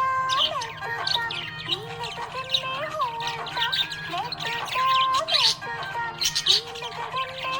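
Budgie chirping in many quick, high twitters over instrumental background music with a smoothly gliding melody.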